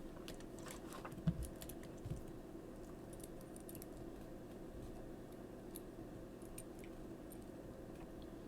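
Small plastic Transformers figure being handled and its parts moved, giving light scattered clicks, with two low knocks about one and two seconds in, over a steady low hum.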